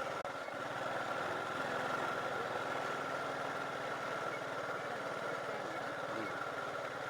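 A vehicle engine runs steadily, with an even high-pitched hum held over it.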